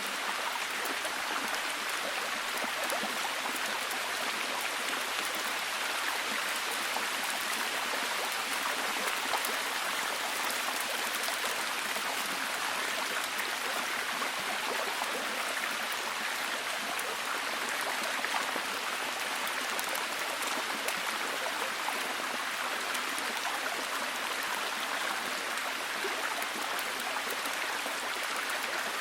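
Steady heavy rain, an even hiss with a fine patter of drops and no change in strength.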